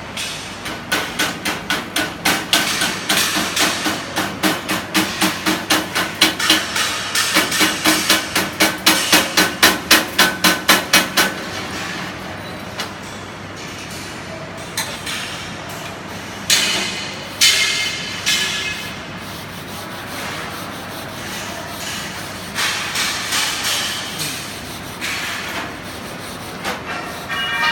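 Metal being struck with a hammer: quick, regular ringing strikes, about two to three a second, for roughly the first eleven seconds, then scattered knocks and scraping.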